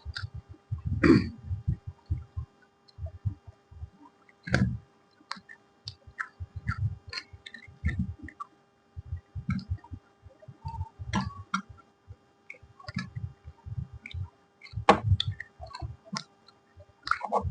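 Close-miked chewing and mouth sounds of someone eating puri with potato curry: irregular low smacks and small clicks, with a faint steady hum underneath.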